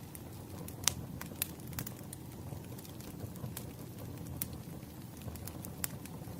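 Burning firewood crackling: irregular sharp pops, the loudest about a second in, over a low steady rumble of the fire.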